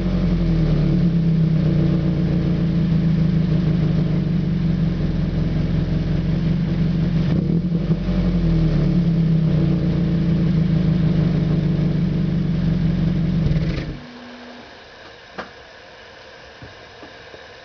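2001 Toyota Celica GT's 1.8-litre four-cylinder engine running steadily through a Tsudo aftermarket exhaust. It shuts off abruptly about 14 seconds in, leaving a much quieter background with a couple of faint clicks.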